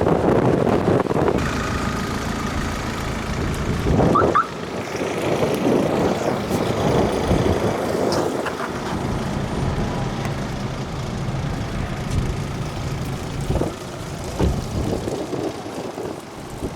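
Strong wind gusting over the microphone, mixed with road traffic and a vehicle engine running.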